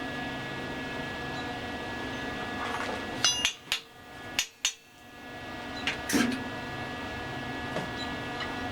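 Several sharp metal-on-metal knocks, the first with a short bright ring, then a heavier clang about six seconds in, from steel axle parts being knocked and set in place. A steady hum runs underneath.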